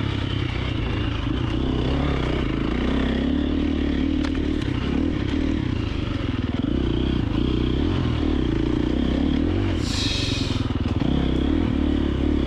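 2024 KTM 350XC-F dirt bike's single-cylinder four-stroke engine running under riding, its revs rising and falling. A brief hiss comes about ten seconds in.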